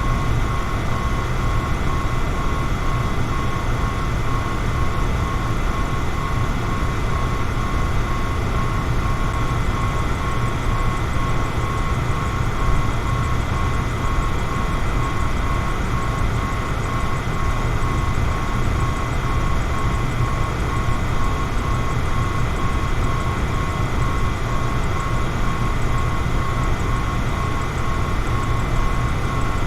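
Electric fan running steadily: an even rush of air with a low hum underneath and a faint, steady high whine.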